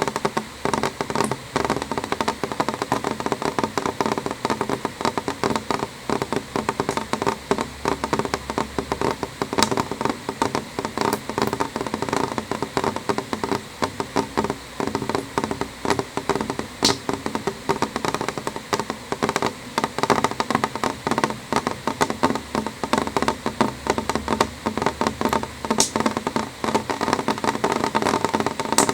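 Rain falling on a window pane: a steady, dense patter of drops tapping the glass, with a few sharper single drops standing out now and then.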